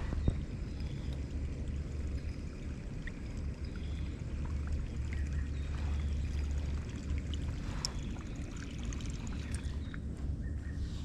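Kayak paddle dipping into the water, with water pouring and trickling off the blades, over a steady low rumble. A single sharp knock comes just after the start.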